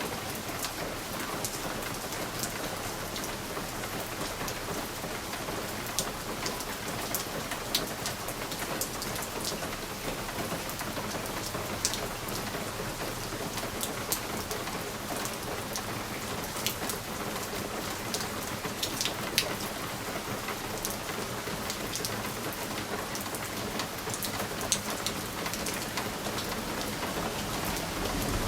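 Steady rain on a window pane: an even hiss of rainfall, with scattered sharp ticks of single drops striking the glass.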